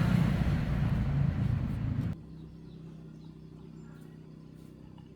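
A motor running loudly, stopping abruptly about two seconds in, after which a much quieter steady hum remains.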